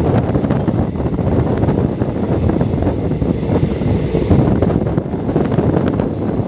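Wind rushing over the microphone aboard a moving express train, over the steady running rumble of the coach.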